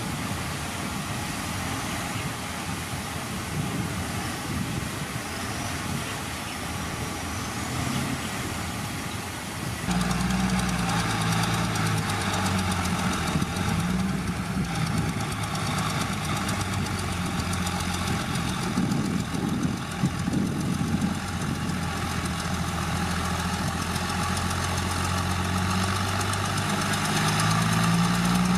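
Heavy diesel engine of earthmoving machinery running. About ten seconds in, the sound switches abruptly to a louder, steadier engine note that wavers slightly in pitch.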